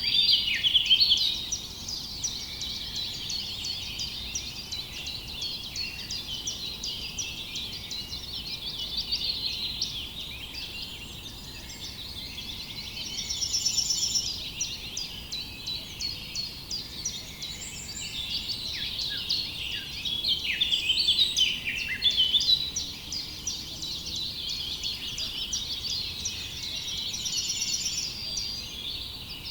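Several songbirds chirping and trilling at once, dense overlapping calls throughout, with a repeated rapid trill of stacked high notes recurring every dozen seconds or so.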